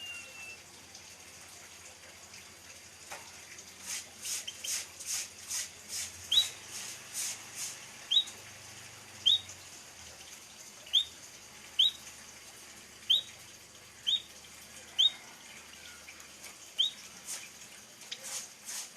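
Munia finch (prit kaji) giving short, single rising chirps, roughly one a second. In the first part they come with a quick run of a dozen or so hissy rustles.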